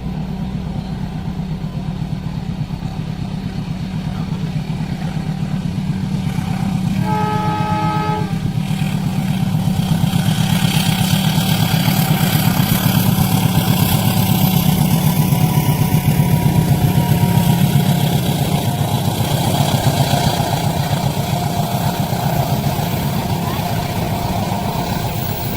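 A train passing a railway level crossing: a steady heavy rumble that grows louder to a peak midway and then eases off, with one horn blast about a second long a quarter of the way in.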